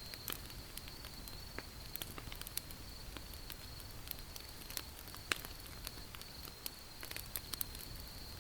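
Wood campfire crackling: irregular sharp pops and snaps over a low hiss, with one louder pop a little past the middle. A steady high-pitched tone runs underneath throughout.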